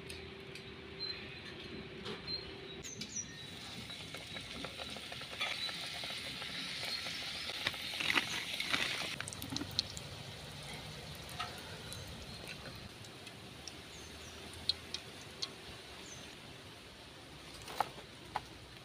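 Chicken rolls frying in hot oil in a metal wok, a soft sizzle that is strongest in the middle. Scattered light clicks, and two sharp knocks near the end.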